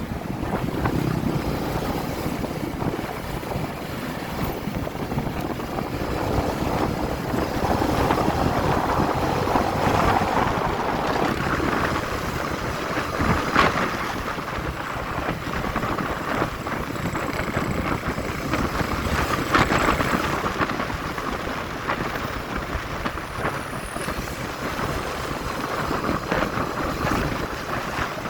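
Wind rushing over the microphone of a moving motorcycle, over the bike's engine and road noise, with one sharp knock about halfway through.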